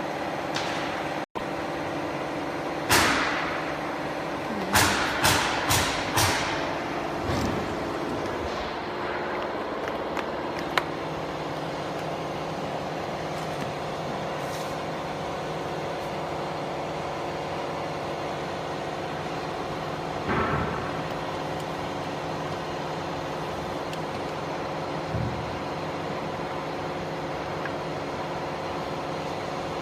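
Steady hum of running machinery with several fixed tones, broken by a few short sharp noises: one about three seconds in, a quick run of four or five a couple of seconds later, and single ones near the middle and later on.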